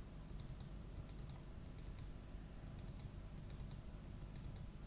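Light clicking from a computer keyboard and mouse, in quick little clusters of a few clicks, about one cluster a second, over a faint low room hum.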